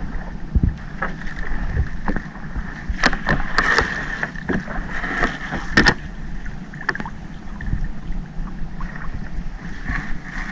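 Small fishing boat's engine running steadily at sea, with scattered sharp knocks and clatter aboard, busiest in the middle.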